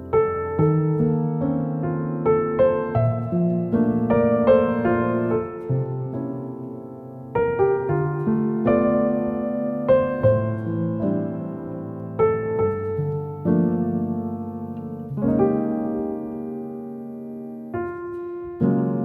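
Background music: a piano playing a slow piece of sustained notes and chords.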